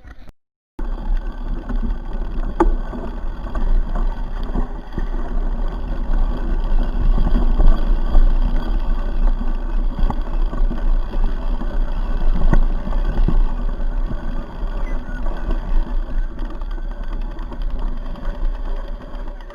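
Mountain bike ridden over rough ground: wind rumbling over the microphone, with the frame rattling and knocking over bumps.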